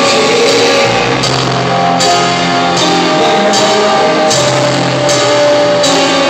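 A rock band playing an instrumental passage with electric guitar and drum kit, with regular cymbal strikes and no vocals.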